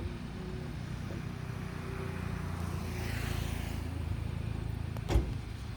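A road vehicle's low engine rumble, with a swelling rush of tyre and air noise as it passes about three seconds in, then a single sharp knock near the end.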